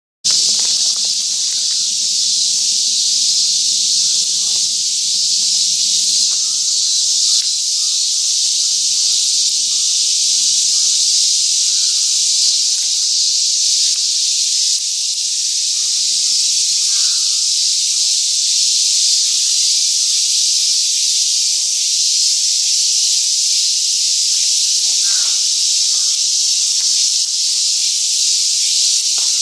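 Loud, steady chorus of summer cicadas: a dense, high hiss that never lets up.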